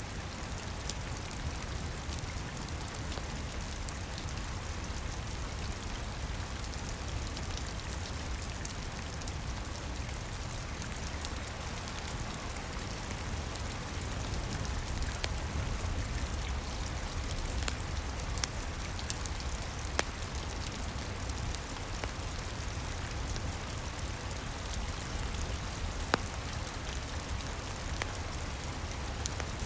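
Steady rain with a low rumble beneath it, mixed with a crackling wood fire: scattered sharp pops, a couple of them louder in the second half.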